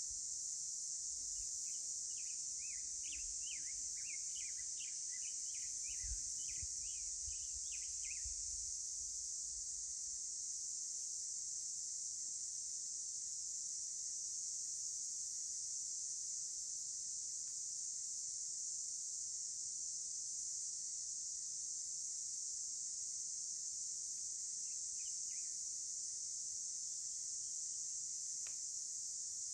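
Steady, high-pitched drone of an insect chorus, with a bird chirping in a quick run of short notes for several seconds near the start and briefly again near the end. A faint low rumble comes and goes in the first few seconds.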